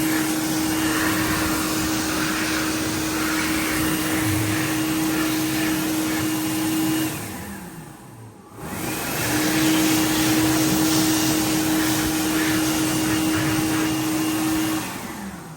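Hand dryer blowing with a steady hum over rushing air. It shuts off and winds down about seven seconds in, starts again about a second later, and winds down again near the end.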